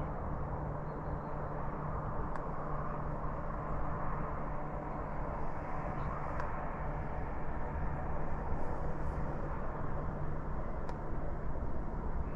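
Steady roar of distant traffic on the A1 main road, an even rushing noise with a low hum under it and no breaks.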